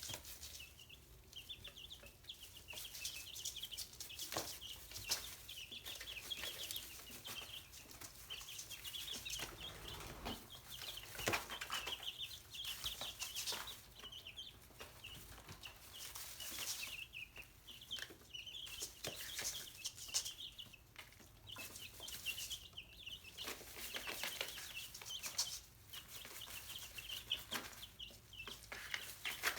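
Chicks peeping continuously in many short, rapid high notes, with scattered sharp clicks among them.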